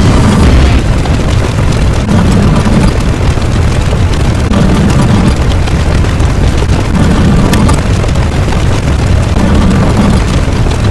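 A loud, steady rumbling sound effect, with a low swell that comes back about every two and a half seconds.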